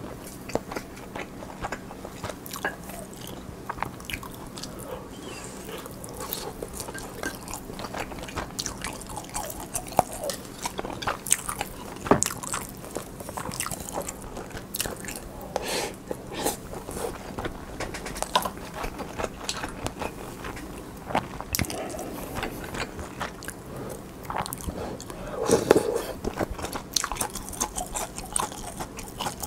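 Close-miked chewing and biting: many small wet mouth clicks as a person eats rice and pollock roe stew (altang), with a louder burst of chewing near the end.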